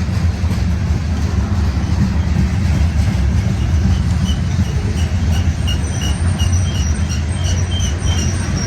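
Manifest freight train rolling past on the grade: a steady, loud, heavy rumble of railcars on the rails. From about three seconds in, a run of short high squeaks repeats over the rumble.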